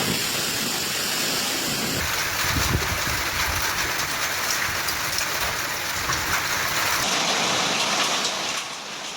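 Heavy rain pouring down, a dense steady hiss of falling water with fine pattering. The sound changes abruptly about two seconds in and again about seven seconds in, and gets quieter near the end.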